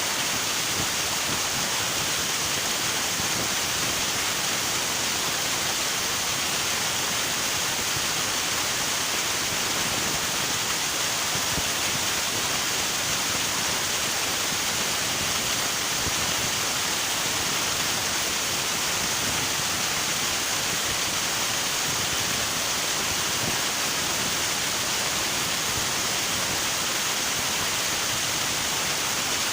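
River water rushing steadily, an even hiss of flowing water without change.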